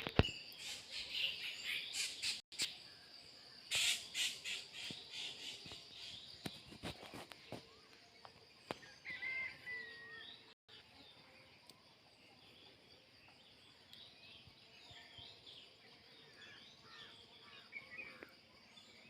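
Several small birds chirping and calling, with short rising and falling notes scattered throughout. Scattered knocks and rustling come in the first half, and the birds are quieter after that.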